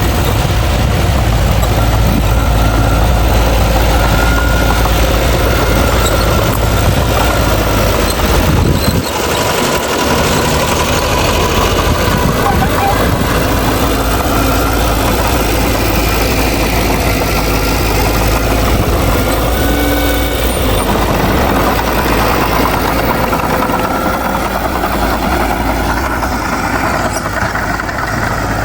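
Bulldozer's diesel engine running steadily, with a short drop in level about nine seconds in.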